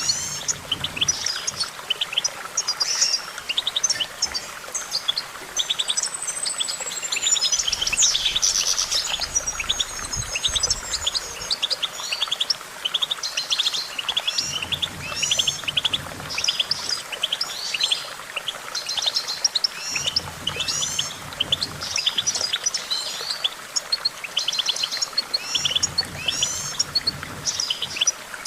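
European goldfinch singing: a fast, unbroken twittering of trills, chirps and sweeping notes.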